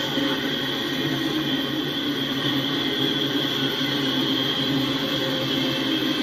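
Double-stack intermodal freight train's well cars rolling past, the wheels running steadily on the rails.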